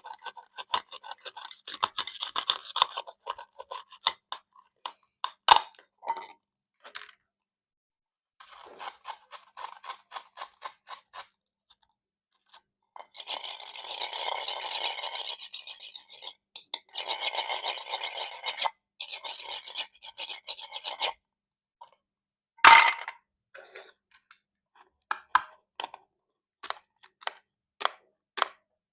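A knife sawing through plastic toy fruit: runs of quick scraping strokes and two longer rasping stretches. About three-quarters of the way through comes one sharp knock, followed by scattered light clicks.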